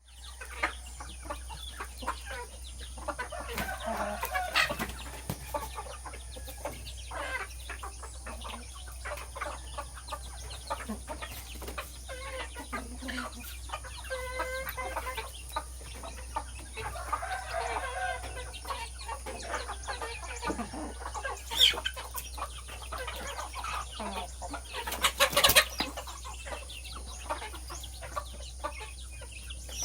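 Chickens clucking as they are fed, with many short clicks and taps among the calls. There is a brief louder burst about 21 seconds in and another near 25 seconds.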